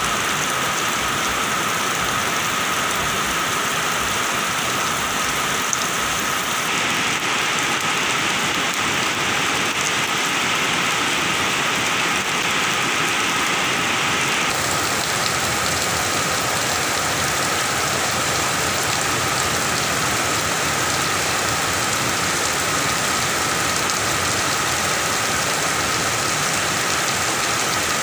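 Heavy rain falling steadily on the ground and garden foliage, an even hiss. For several seconds in the middle the hiss turns brighter.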